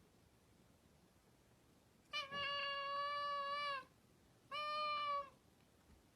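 A cat meowing twice: first a long, drawn-out call held at one steady pitch, then a shorter one.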